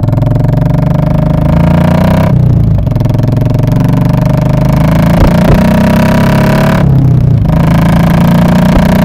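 Royal Enfield Classic 500's single-cylinder engine through an aftermarket muffler, accelerating under way: the exhaust note climbs in pitch, drops briefly at a gear change about two seconds in, climbs again and changes gear once more about seven seconds in.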